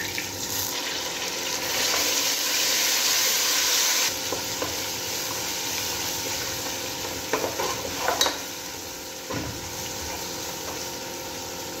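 Ginger-garlic paste sizzling in hot oil with golden-fried onions in a pot while being stirred. The sizzle is loudest for a couple of seconds near the start, and there are a few knocks of the spoon against the pot about eight seconds in.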